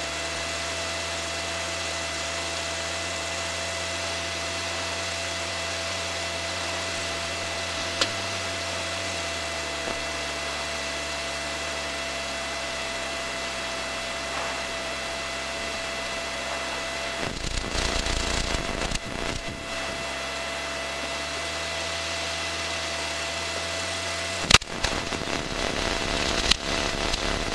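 Aircraft engine and propeller drone heard inside the cockpit, with thin steady whine tones over it. The low hum shifts in pitch about 8 to 10 seconds in, as power changes. Louder bursts of crackling noise come in twice, around 17 seconds and again from about 24 seconds.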